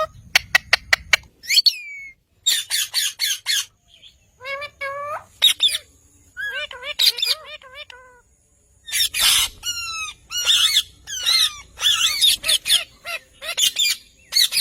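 Pet parrot squawking and calling in quick runs of short harsh notes and bending whistled chirps, with a rapid series of sharp clicks about a second in and a short pause a little past halfway.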